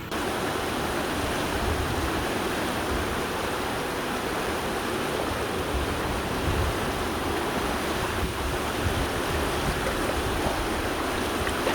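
River water rushing steadily through a canyon.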